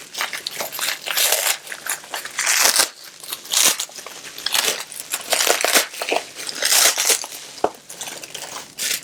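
Packaging being handled, crinkling and rustling in irregular bursts, with a few small clicks.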